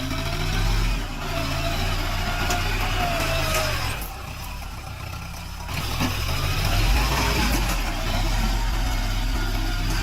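Tractor diesel engine running and working hard, dropping off about four seconds in and picking up again near six seconds.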